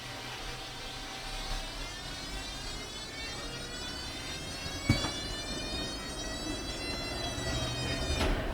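Tram's electric traction motors whining from inside the car, the whine rising slowly in pitch as the tram gathers speed. A single sharp knock about five seconds in.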